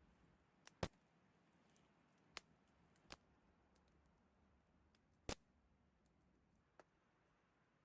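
Near silence broken by six short, sharp clicks at uneven intervals. The loudest comes just under a second in, and another strong one about five seconds in.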